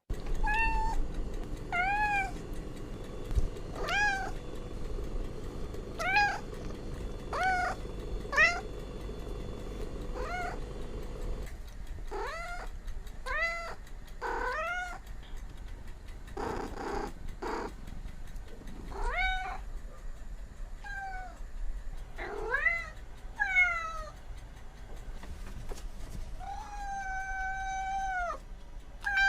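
Domestic cat meowing over and over, short meows that rise and fall every second or two, ending in one long, drawn-out meow near the end.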